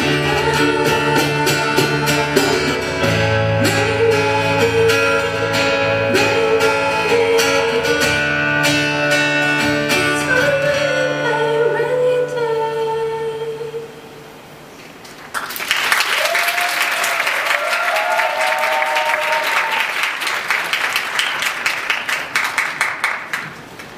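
A live acoustic-guitar band with voice plays the last bars of a song, which ends about fourteen seconds in. After a short pause the audience applauds and cheers for about eight seconds.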